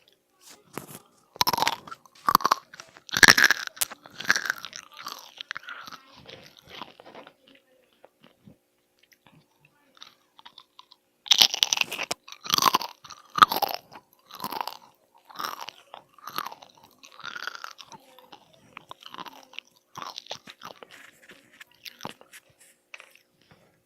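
A person biting into crunchy food and chewing it close to the microphone. There are two bouts: each starts with loud, crackly crunches that trail off into quieter chewing, and the second begins about halfway through.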